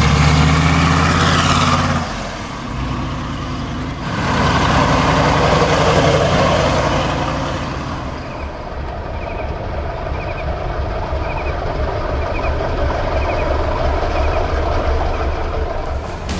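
A 6.5-litre turbo diesel V8 in a 1976 International Scout II running. It gets louder about four seconds in, then settles. In the second half a faint short chirp repeats about once a second.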